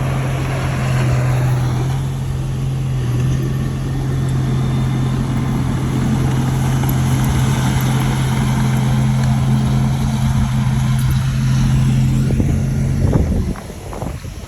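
A bulldozer's diesel engine runs loud and steady at one speed, with heavy mechanical noise. About thirteen seconds in it drops off suddenly to a much lower level.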